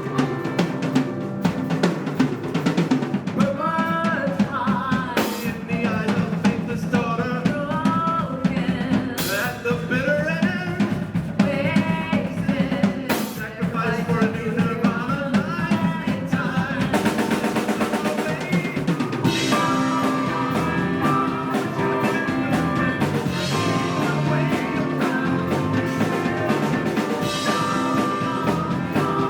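Live rock band playing, with a drum kit driving the beat and a lead vocal over it through the first half. Sharp crashing hits land about every four seconds in the first half.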